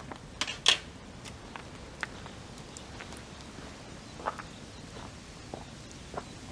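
Wood campfire crackling, with irregular sharp pops of burning wood; the loudest pop comes under a second in.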